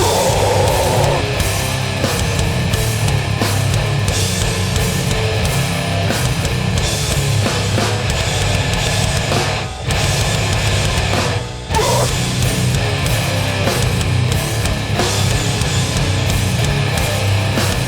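Hardcore band playing live: heavily distorted guitars, bass and pounding drums. There are two short stops, about ten and eleven and a half seconds in.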